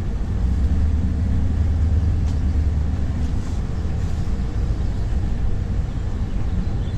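Vehicle driving on a rough back road, heard from inside the cabin: a steady low rumble of engine and road noise, a little stronger in the first few seconds.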